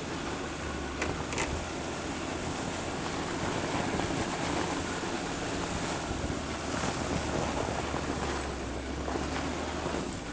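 Land Rover Discovery 2 TD5's five-cylinder turbodiesel running with a low steady drone as the mud-terrain tyres churn through wet snow in a constant rushing wash, with a few brief knocks.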